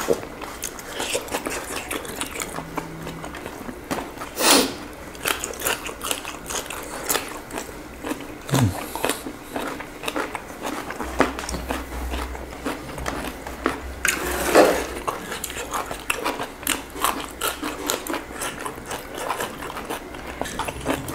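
Close-miked eating: chewing and biting of food, with many small irregular clicks throughout and two louder short bursts, one about a quarter of the way in and one about two-thirds of the way in.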